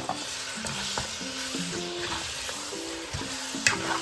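Raw chicken breast pieces sizzling in hot oil and masala in a nonstick pan, stirred with a spatula that knocks against the pan at the start and again near the end. Background music plays underneath.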